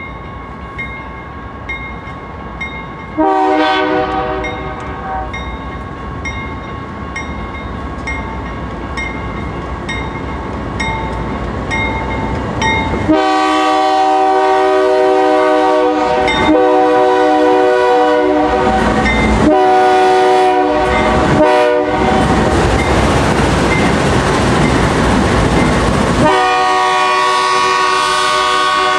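Approaching train's locomotive air horn: a brief blast about three seconds in, then a run of long blasts with short breaks between them, and another long blast near the end, over a train rumble that grows louder.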